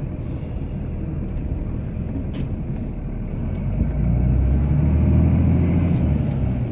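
Cummins turbo-diesel inline-six in a Ram pickup running steadily, its engine note rising about halfway through and staying louder for a couple of seconds while plowing snow.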